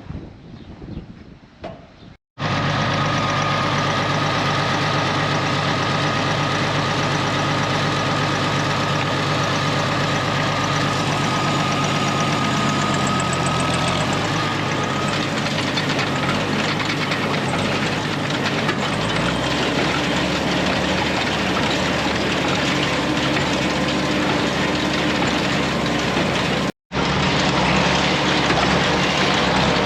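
Farm tractor engine running steadily under load, with a thin steady whine above it that stops about halfway through. After that the engine note shifts a little lower.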